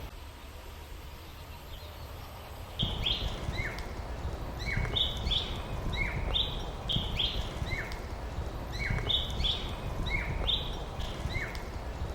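Songbird chirping a short phrase of quick high notes, some sweeping down, repeated about every second and a half. It starts loudly about three seconds in, over a steady low rumble.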